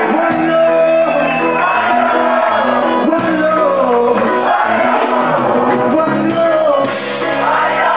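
Live reggae band playing, with a voice singing or shouting over it and some crowd noise.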